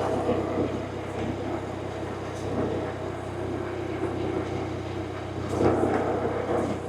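BMW R1100RT's boxer twin engine running under way, with wind and road noise. It grows louder for about a second some five and a half seconds in.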